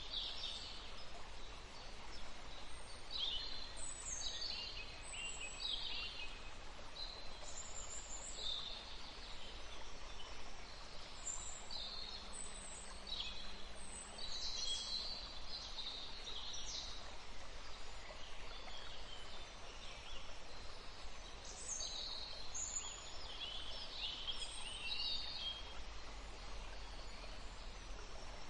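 Small songbirds chirping and singing in short, high calls, in clusters with a lull about halfway through, over a steady low background rumble.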